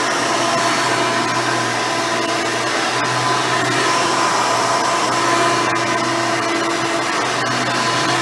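Hoover Elite 350 upright vacuum cleaner running steadily, driven by a swapped-in 7-amp motor with a seven-blade fan.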